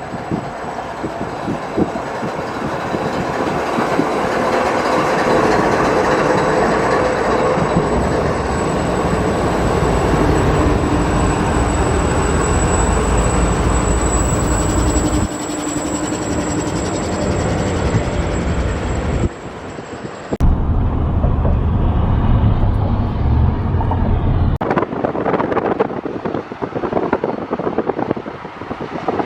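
A train rolling past close by: a steady loud rumble and rolling noise of the cars on the rails, with abrupt changes in the sound about twenty seconds in.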